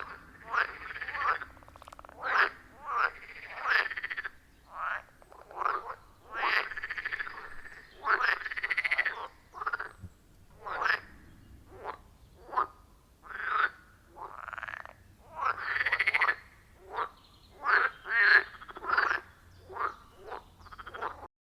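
A chorus of pond frogs croaking: loud, repeated calls, about one to two a second, some short and some drawn out to about a second. The calls cut off suddenly near the end.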